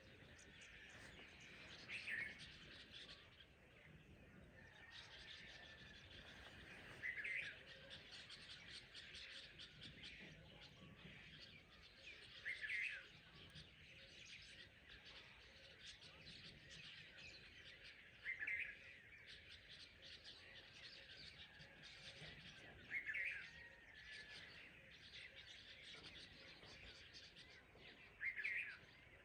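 Dawn chorus of many birds chirping together, with one bird's short call standing out six times, about every five seconds.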